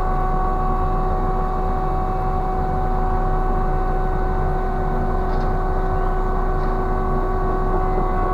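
Ship's deck crane machinery running steadily under load: a deep drone with a steady high whine.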